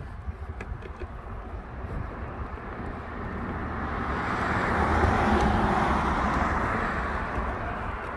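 A car passing by, its tyre and engine noise swelling to a peak about halfway through and then fading away.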